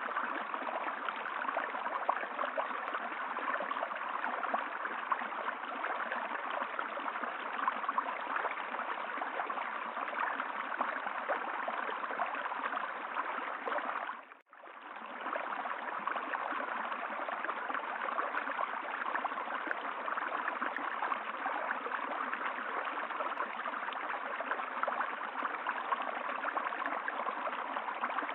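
Steady rush of flowing stream water. Around the middle it briefly fades almost to nothing and comes straight back.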